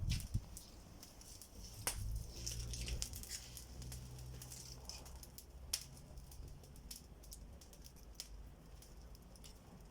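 A small campfire of dry twigs, straw and leaves crackling, with scattered sharp pops. A low rumble runs from about two seconds in to about four and a half.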